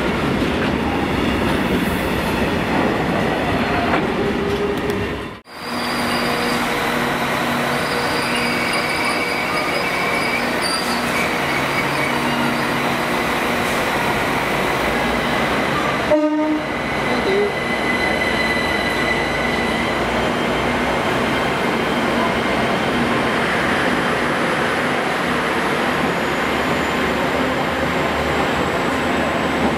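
A freight train of covered wagons rolling past on jointed track. After a break, a Class 387 electric multiple unit draws into the platform with a steady high squeal. In a last stretch it runs close by, with a faint rising whine near the end.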